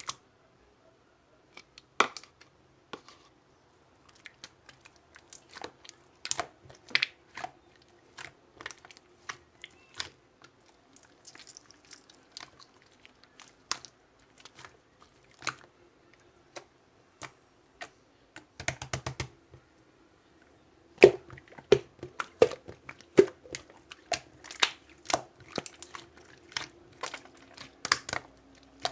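Hands playing with slime: irregular sticky clicks and small pops as it is pressed and folded, with a brief dense run of pops a little past the middle and busier popping near the end.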